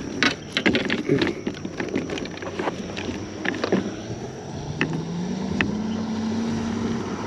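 A string of short knocks and clicks, then a distant engine's hum that rises in pitch from about halfway through and holds steady near the end.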